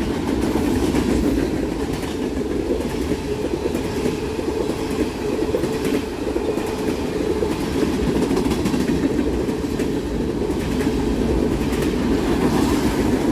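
A freight train of tank cars rolling past, a steady rumble of steel wheels on the rails with a light clickety-clack as the wheels cross rail joints.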